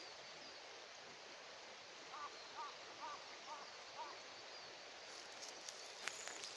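A bird calling in a quick series of about six short, evenly spaced chirps, over a steady faint outdoor background; a few sharp clicks follow near the end.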